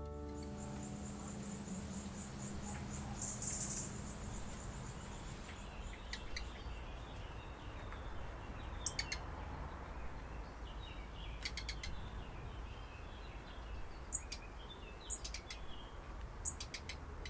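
Outdoor ambience: birds giving short, high chirps several times over a steady low rumble.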